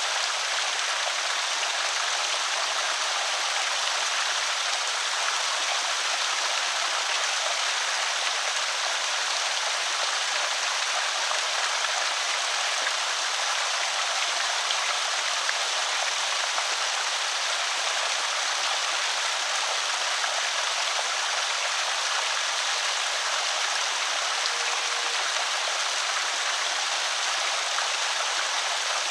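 Water spilling steadily over a small creek spillway, an even splashing rush with no low rumble.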